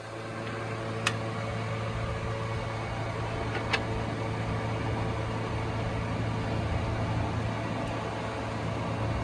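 Toyota Premio's 1ZZ-FE 1.8-litre four-cylinder engine running steadily, a low even hum, checked for an engine sound problem. Two sharp clicks come about a second and about three and a half seconds in.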